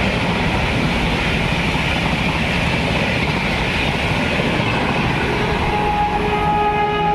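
An Indian Railways train running past at speed, a loud steady rush of wheels on rails. About five and a half seconds in, a locomotive horn starts sounding one steady held note.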